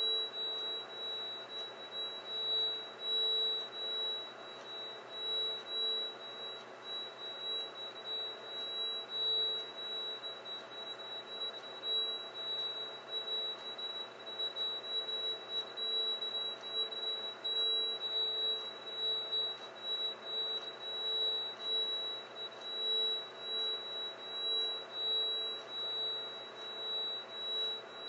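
A recording played back: a steady high-pitched whine with a lower hum that pulses in loudness several times a second.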